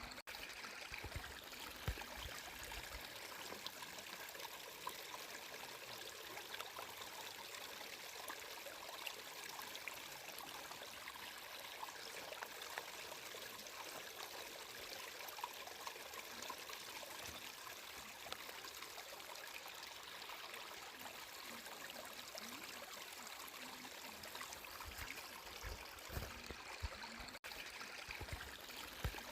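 Water flowing and trickling steadily, with a dense fine splashing, and a few low bumps near the start and again near the end. The sound cuts out for an instant near the end.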